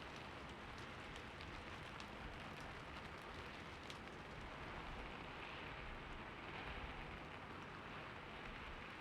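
Steady rain falling, a soft even hiss with scattered individual drops ticking on a surface.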